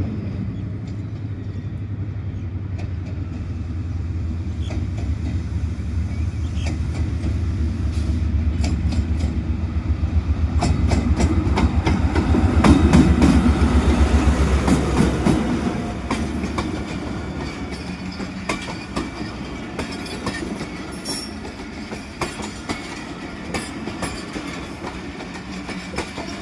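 Chinese-built locomotive passing by: its low rumble builds to a peak about halfway through and then fades. After it comes the rapid clickety-clack of the train's wheels over rail joints.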